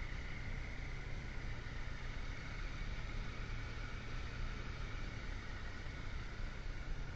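Motorcycle engine running at a steady cruise, with a constant rush of wind and road noise.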